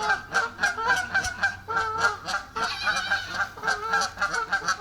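Geese honking over and over, a fast unbroken string of short calls several a second.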